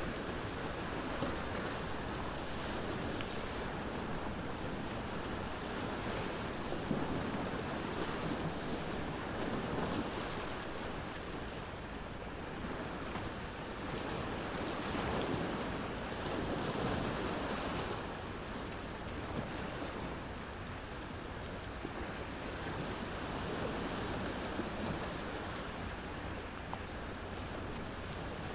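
Ocean waves washing in and out in slow swells, with a few sharp crackles from a wood fire.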